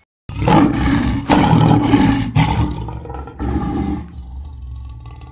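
Big cat roaring: a run of loud, rough roars over the first four seconds, then easing into a quieter, low rumbling growl.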